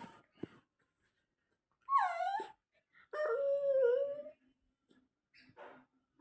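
Dog whining: a short call that falls in pitch about two seconds in, then a longer, lower whine a second later.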